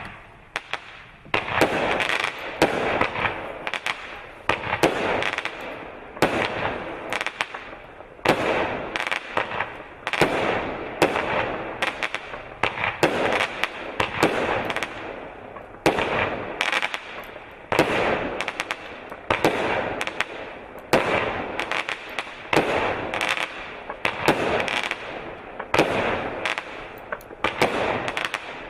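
A 25-shot aerial firework cake firing shot after shot, about one a second. Each shot is a sharp bang trailing off in a noisy decay.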